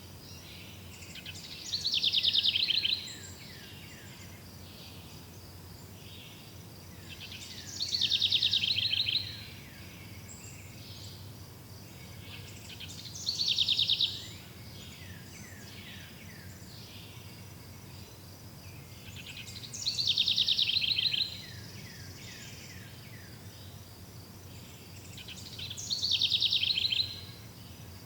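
A songbird repeats the same short song five times, about every six seconds: each a quick run of sweeping notes that ends in a rapid trill. Softer bird notes come between the songs, over a faint steady insect chirring.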